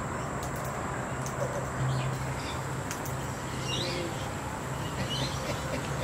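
A few short, faint bird chirps over a steady background hiss and an intermittent low hum.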